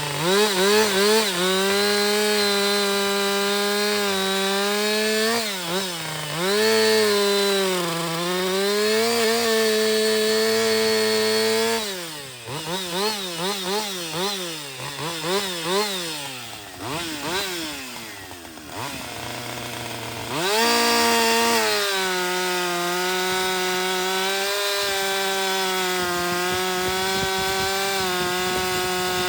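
Two-stroke chainsaw running at high revs, cutting wood with a Holzfforma chain. The pitch dips a few times under load. Around halfway the throttle is blipped up and down repeatedly and drops almost to idle, then the saw goes back to a steady full-throttle cut.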